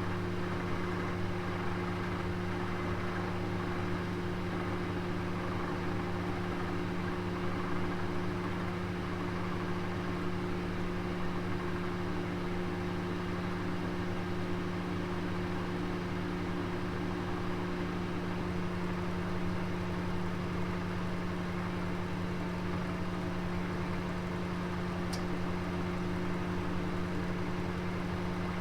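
Oven running with a roast inside: a steady low hum under an even rushing hiss, with one faint tick near the end.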